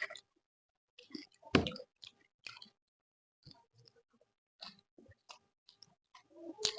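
A person chewing food close to the microphone: wet mouth clicks and smacks, with a louder one about one and a half seconds in and a short quiet pause midway.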